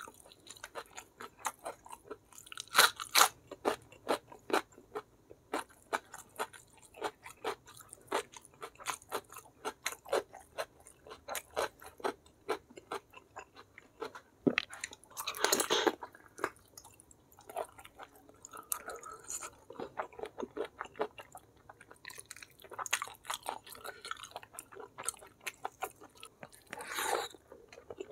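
A person eating close to the microphone: steady run of wet chewing clicks and crunches, with louder, longer crunching bursts about three seconds in, midway and near the end.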